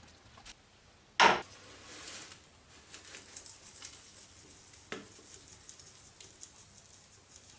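Loose metal parts handled: one sharp clank about a second in, a lighter knock near five seconds, and faint small clinks between.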